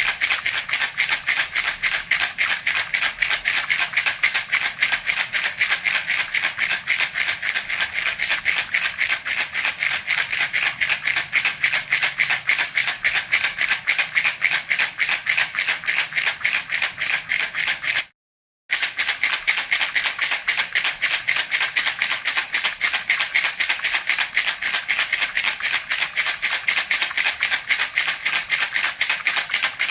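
Baby rattle (jhunjhuna) shaken in a rapid, even rhythm. The rattling breaks off for about half a second some eighteen seconds in, then carries on as before.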